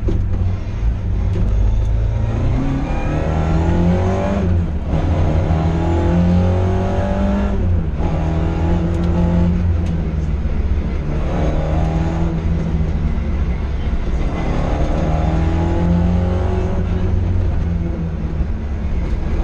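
Ford Escort RS2000 rally car's engine heard from inside the cockpit, pulling hard under acceleration. Its pitch climbs several times in a row, with short breaks between the climbs as the driver changes gear.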